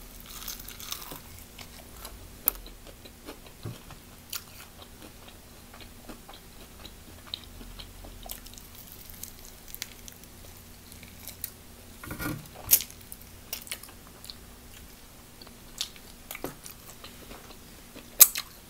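Close-up biting and chewing of a crispy fried chicken wing: scattered crunches and clicks from the mouth, the loudest a little past halfway and another sharp one near the end.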